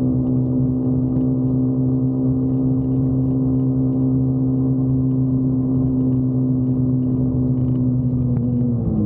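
Motorcycle engine running at a steady cruising speed, a constant low drone; right at the end its pitch starts to drop as the throttle eases off.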